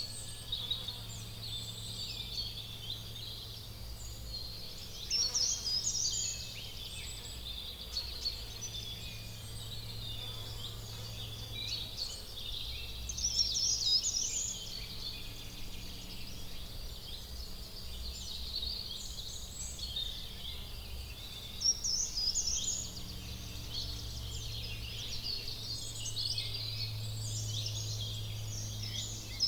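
Outdoor ambience of several small birds chirping and singing in quick, overlapping phrases throughout, over a faint steady low hum.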